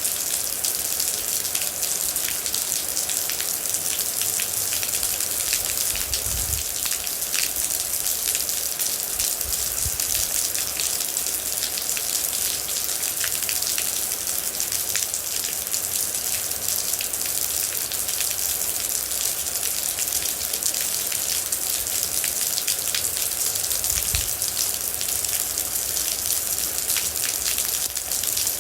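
Steady, heavy rain falling, a dense even hiss full of fine droplet ticks. A few soft low thuds sound briefly along the way.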